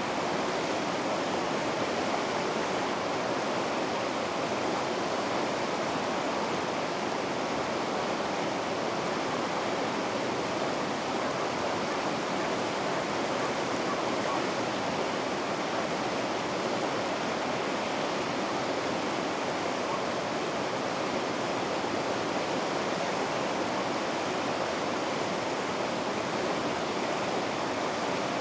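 Steady rushing of water over river rapids, an even, unchanging wash of sound with no breaks or separate splashes.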